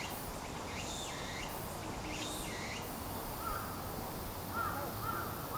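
Birds calling over steady outdoor background noise: a few high, sweeping chirps in the first half, then several short, harsh calls repeated from about three seconds in.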